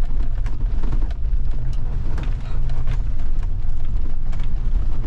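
2008 Ford F-350 pickup driving slowly over rough, wet ground: a steady low rumble with scattered light clicks and knocks.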